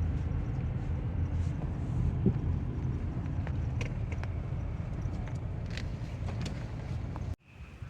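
A steady low rumble like a running motor, with scattered light clicks and ticks over it, cutting off abruptly near the end.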